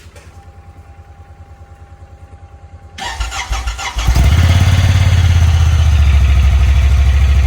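Honda Pioneer side-by-side's engine being cold-started: the starter cranks with rapid, even pulses for about three seconds, then the engine catches and runs up, settling into a loud, steady idle.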